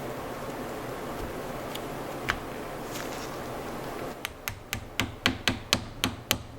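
A steady hiss, then a quick series of about ten sharp taps, roughly four a second, growing louder toward the end.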